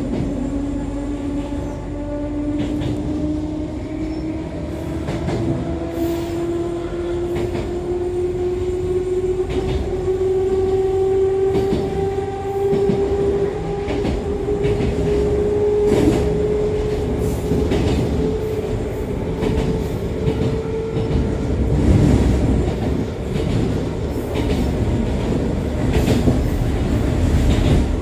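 Aboard an Echizen Railway MC6101-series electric railcar as it accelerates: the MT54 DC series-wound traction motors and gearing whine, the pitch rising steadily for about twenty seconds and then levelling off and fading, over running rumble with wheels clicking across rail joints. The car is the one noted for an unusual running noise.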